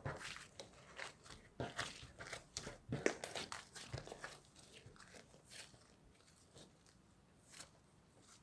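Slime being squished and pressed by hand, making irregular small clicks, pops and crackles, thick in the first half and thinning out towards the end.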